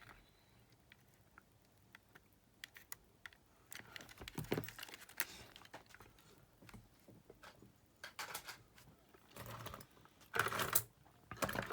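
Scattered small clicks and taps of plastic and metal parts being handled while a new drive belt is fitted into an Aiwa WR70 cassette player's tape mechanism. The clicks come in clusters, busiest about four seconds in and again near the end.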